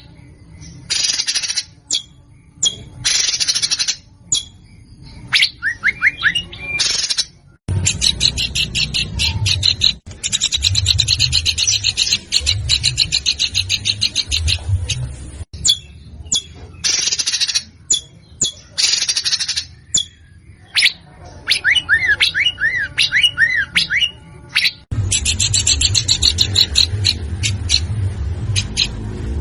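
Recorded songbird song: harsh, rasping calls and fast, high chattering trills in long runs, with a short series of quick rising whistled notes a little past the middle.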